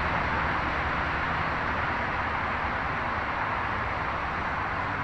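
Steady rainfall, an even hiss with no break.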